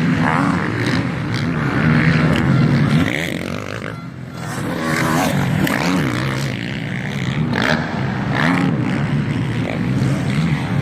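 MX1 motocross bikes racing, their engines revving up and down as they pass, with a brief lull about four seconds in.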